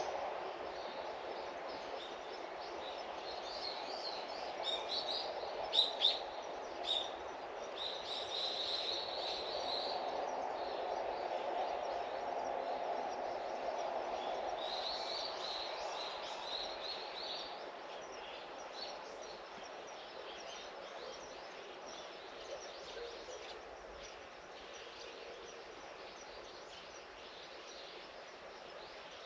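Outdoor garden ambience: small birds chirping in short runs, mostly in the first half, over a steady background hum. Three sharp clicks about six to seven seconds in.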